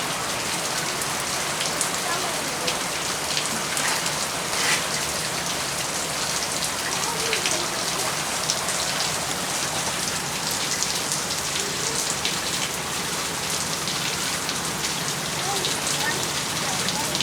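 Heavy rain falling steadily, with many separate drop hits close by.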